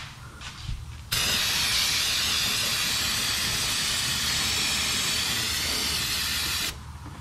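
Aerosol brake cleaner spraying in one continuous hiss of about five and a half seconds, starting and stopping sharply, washing oil residue off the underside of the engine.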